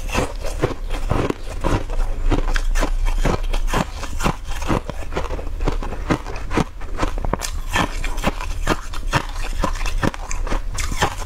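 Close-miked chewing of a crunchy green-coated sweet ball: dense, irregular crunches, several a second, with wet mouth sounds.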